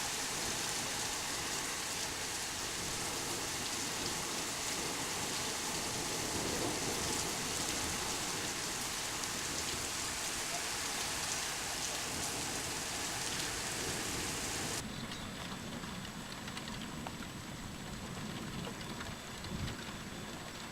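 Heavy rain pouring down steadily in a thunderstorm. About three-quarters of the way through it drops suddenly to a quieter, softer rain.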